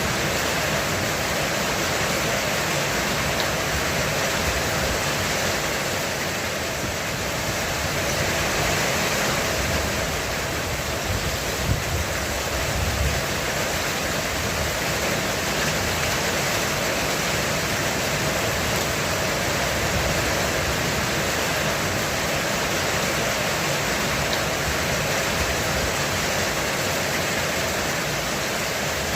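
Heavy rain pouring steadily on a roof, a dense even hiss. About twelve seconds in, a few brief low thumps rise out of it.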